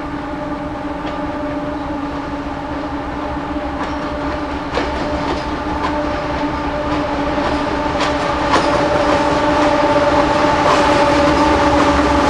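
Diesel freight locomotives approaching, their engines' steady drone growing louder as they near, with a few sharp clicks from the wheels on the rails.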